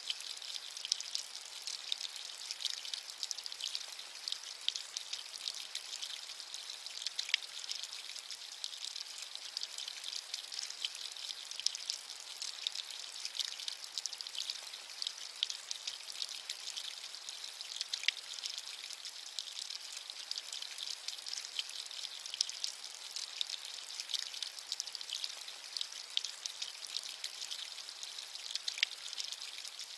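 Steady rain, a dense patter of fine drops making a light, high hiss with no low rumble.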